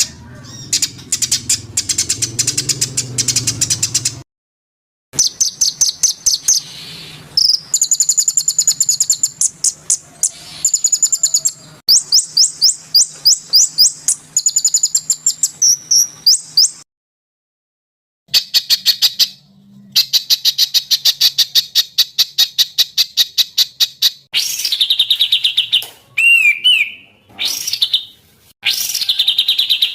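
Songbird singing in rapid runs of sharp, high repeated notes and trills, in phrases that break off abruptly into silence twice, with a twisting whistled note late on.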